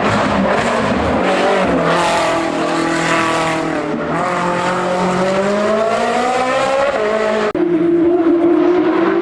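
Race car engine at high revs on a hill-climb course, its note falling and then climbing steadily as it pulls through a gear. About seven and a half seconds in, the sound switches abruptly to a different engine holding a steady high note.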